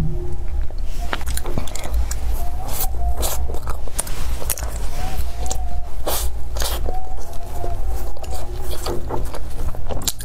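Close-miked eating sounds: biting into and chewing a soft pastry roll filled with tapioca pearls, with many sharp wet mouth clicks and crunches. There is a steady low rumble underneath.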